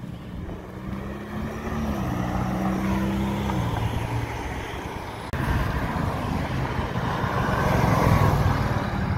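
Supercar engine accelerating away, its pitch rising and then dropping through upshifts. After a cut about five seconds in, a Mercedes-AMG GT's twin-turbo V8 drives past close by, loudest near the end.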